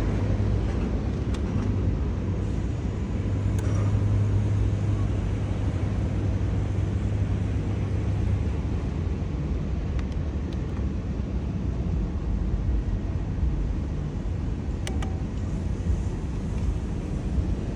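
A vehicle running, heard from inside the cabin: a steady low engine and road hum that eases off about eight seconds in, with a few faint ticks.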